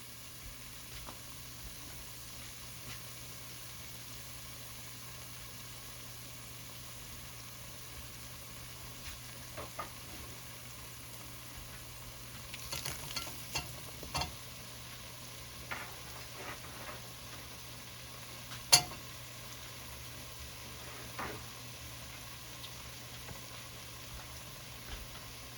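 Onion frying in a browned flour roux with tomato in a pot: a steady low sizzle, with a few short knocks of a utensil against the pot, the sharpest about two-thirds of the way through.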